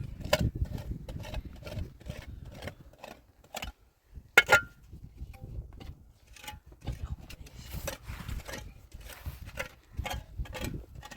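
Irregular knocks and scraping from handling wood while building a shelter frame, with one sharp, much louder knock about four and a half seconds in.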